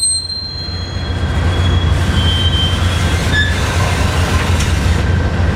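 Train rolling by: a steady low rumble with a few faint, thin wheel squeals in the middle.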